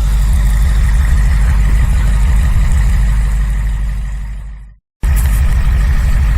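Strong blizzard wind buffeting the microphone as a heavy, steady low rumble. It fades out about four seconds in, goes briefly silent, then cuts back in abruptly.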